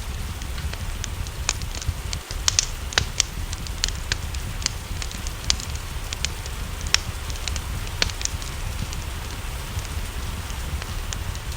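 Wood fire crackling, with irregular sharp pops and snaps over a steady low rumble, mixed with a soft, even hiss of rain.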